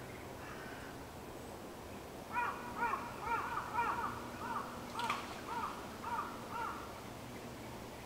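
A bird calling about ten times in quick succession, each call a short arched note, with the later calls growing fainter.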